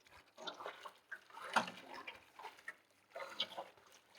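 Soft, irregular water splashes from a swimmer's strokes, about one a second, with water lapping against a towed boat.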